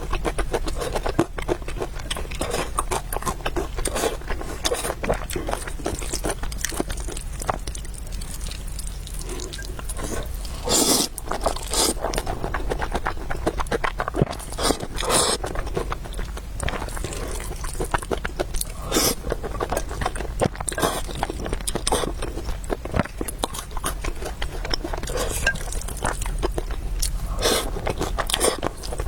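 Close-miked chewing and biting of noodles and meatballs: a dense run of small clicks, with a few louder bursts near the middle.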